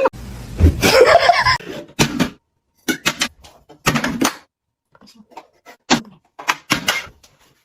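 A person laughing in short bursts, broken by brief silences.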